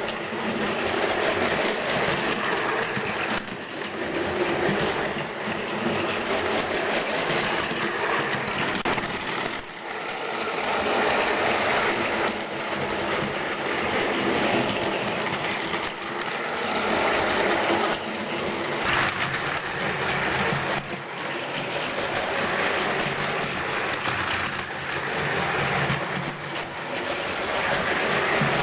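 Battery-powered Plarail toy train running on plastic track: a steady motor whir and wheel clatter that rises and falls every few seconds.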